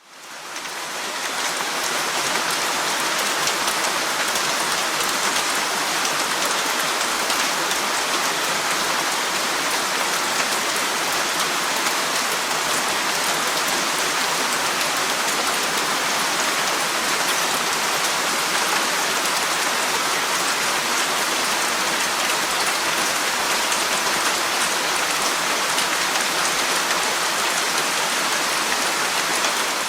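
Steady rain falling through trees, an even hiss with fine drops throughout; it fades in over the first second.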